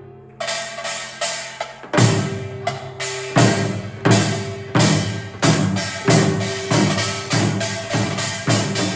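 Korean traditional ensemble music: struck drum and woodblock-like percussion hits that ring on over held pitched tones. After a brief lull at the start, the hits build into a steady, regular beat from about two seconds in.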